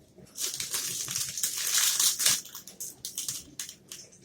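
A cold caramel triple nut protein bar crunching close to the microphone. There is a dense crackle for about two seconds, then scattered small clicks.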